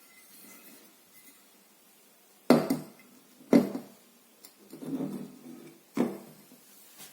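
A teapot and its parts being handled: a few sharp clinks and knocks, about a second apart, with a longer rattle between them.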